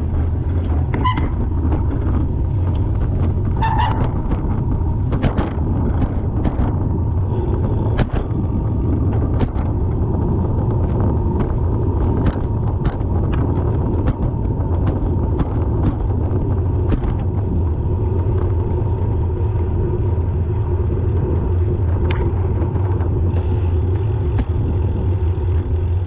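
Car driving in traffic, heard from inside the cabin: a steady low road and engine rumble, with many short, irregular clicks or knocks and two brief high tones about one and four seconds in.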